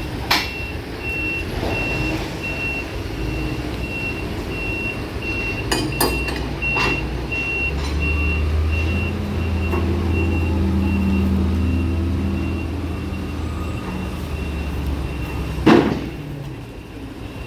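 Heavy vehicle's reversing alarm beeping steadily about twice a second, then stopping, over a diesel engine that runs harder in the middle. A few sharp metallic clanks, the loudest near the end.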